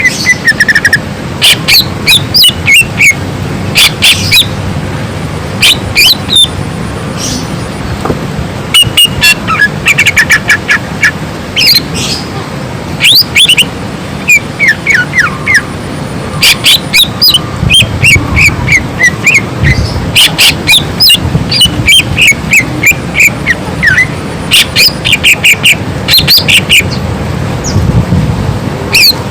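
Greater green leafbird (cucak ijo) in full, loud song: rapid runs of sharp chirps and short trills, with whistled notes that sweep up and down, repeated in quick varied phrases.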